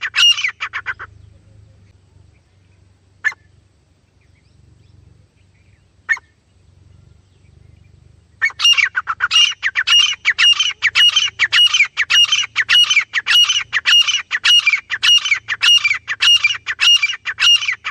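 A teetar (francolin) calling: a fast series of loud, repeated rising notes, about two a second, breaks off about a second in, two single notes follow a few seconds apart, and the series picks up again past the middle and runs on.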